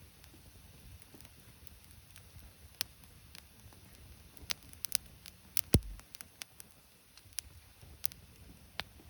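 Scattered sharp snaps and crackles of wood, irregularly spaced, with one louder snap and a thump about six seconds in.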